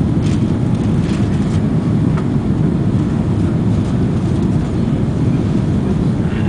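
Steady cabin noise of a four-engined Airbus A340 in flight on approach: a loud, even low rush of engines and airflow.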